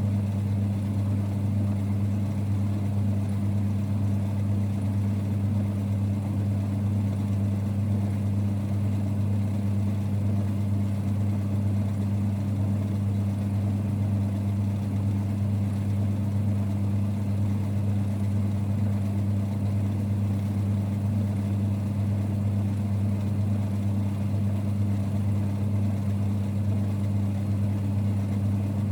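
1946 Boxford lathe running, a steady low rumble with a constant hum that does not change.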